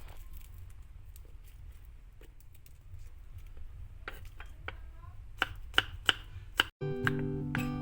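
A knife chopping on a cutting board: scattered knocks, several of them sharp, over a low steady rumble. Acoustic guitar music starts near the end.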